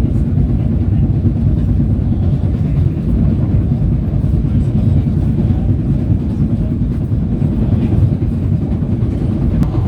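PATH train in motion heard from inside the car: a steady low rumble of wheels on the track and running gear.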